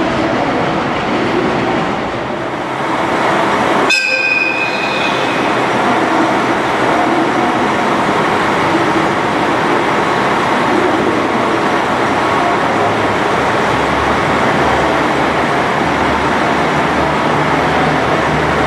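A train running in the station, a steady loud rumble and noise. About four seconds in, a brief high-pitched toot sounds.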